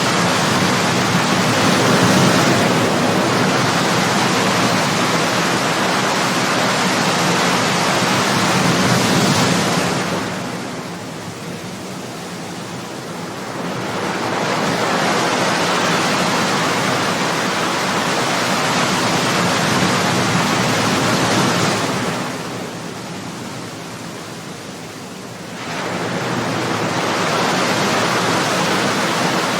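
Ocean surf: waves breaking and washing in as a steady rush of water. The rush eases off twice for a few seconds, then swells again as the next wave comes in.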